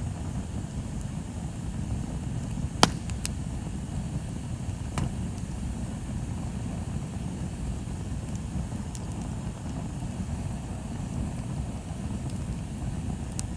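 Wood bonfire burning: a steady low rumble with a few sharp crackles and pops from the burning wood, the loudest about three seconds in.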